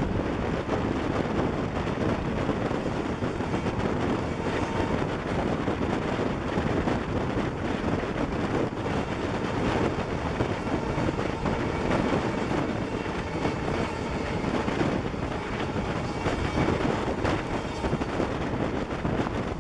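Passenger train running at speed, heard from an open door of one of its coaches: a steady rush of wheels on rail mixed with wind on the microphone.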